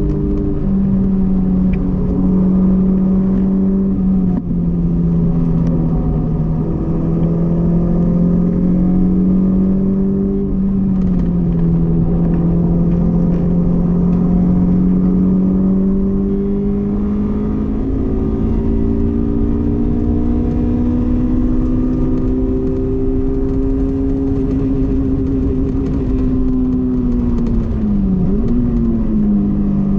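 Honda S2000's four-cylinder engine running hard at high revs on a track lap, its note climbing slowly through the gears and dropping back at shifts and braking. Near the end the pitch dips sharply, then comes back up.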